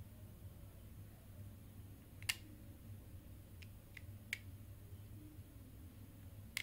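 Faint, scattered sharp clicks of a small plastic part being cut: one louder click about two seconds in, three lighter ones close together near the middle, and another at the end, over a low steady hum.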